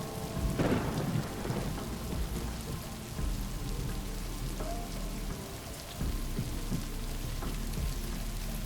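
Steady rain falling, with a crack of thunder about half a second in that dies away over the next second.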